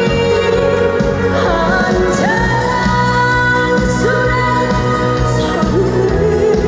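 Live pop music through a stage sound system: a woman's voice holding long notes that slide between pitches over a full band with a steady beat.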